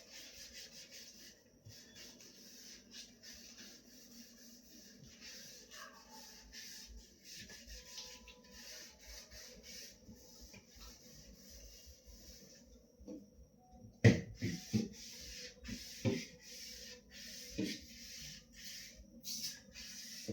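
Scrubbing and wiping fridge surfaces by hand, a steady rubbing hiss in quick strokes. About two-thirds of the way through, a loud knock, then several more knocks and clatters.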